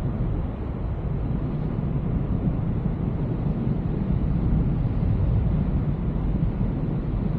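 Wind rushing over the microphone in paraglider flight: a steady rushing noise, strongest in the low end.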